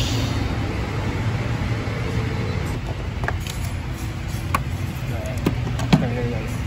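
Volkswagen Golf MK6 GTI engine idling steadily, a low even hum, with a few sharp clicks of hands and parts being handled in the engine bay from about halfway in.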